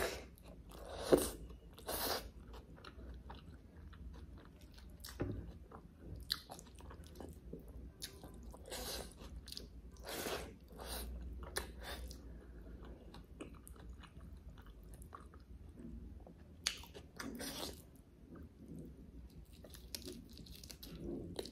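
Close-up chewing and biting of butter chicken and rice eaten by hand: irregular wet mouth sounds and bites, the loudest about a second in.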